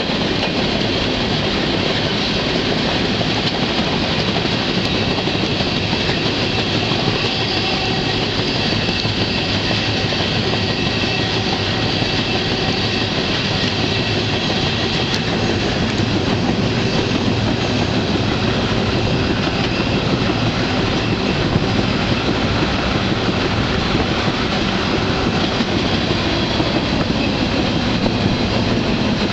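A moving freight train heard from aboard: the steady running noise of the wheels and cars on the rails.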